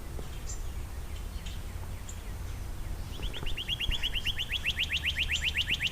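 Northern cardinal singing: about three seconds in it breaks into a fast trill of repeated down-slurred whistled notes, roughly nine a second, that runs on to the end. Faint scattered chirps come before it.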